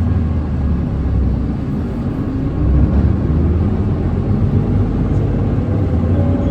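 Nissan Diesel Space Runner city bus heard from inside the cabin, its diesel engine running as the bus drives. The low drone grows louder about three seconds in.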